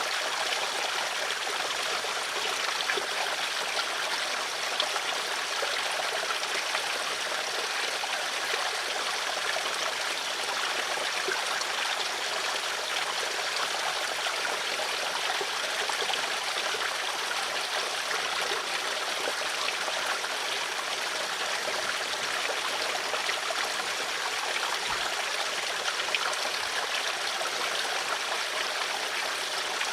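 Steady flowing water of a stream, an even splashing rush with a trickling texture and no pauses.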